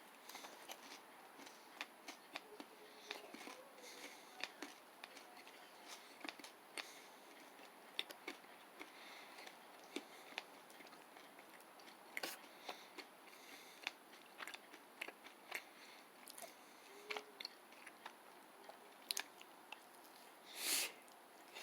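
Faint mouth sounds of a person chewing a soft, chewy granola bar: scattered soft clicks and smacks at irregular intervals, with a brief louder rush of noise near the end.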